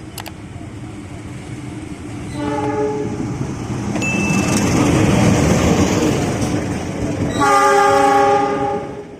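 A passing train sounding its horn twice, a short blast and then a longer one near the end, with the rumble and wheel clatter of the train growing loud between them.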